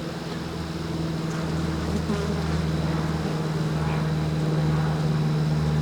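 Honeybees of an opened, agitated hive buzzing in a steady low hum that swells slightly.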